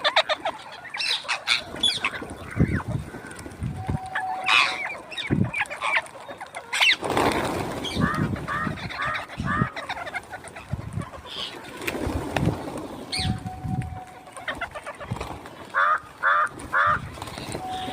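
Parrots squawking and chattering in many short, sharp calls, with a quick run of four calls about eight seconds in and three more near the end.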